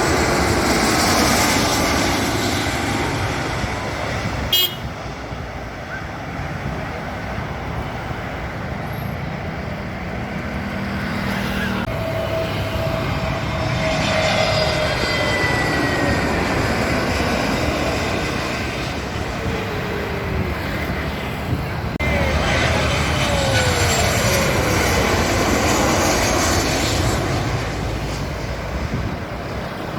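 Steady aircraft and road-traffic noise, with several falling whines as things pass. A steady horn-like tone sounds for about two seconds around twelve seconds in, and a sharp click comes about four and a half seconds in.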